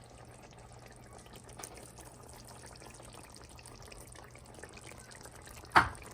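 Faint, steady sizzle of chicken and tomato cooking in oil in the pot over medium-high heat, with one sharp clack near the end.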